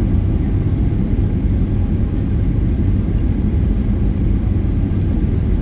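Airliner engines and airframe making a steady, loud low rumble as heard from inside the passenger cabin.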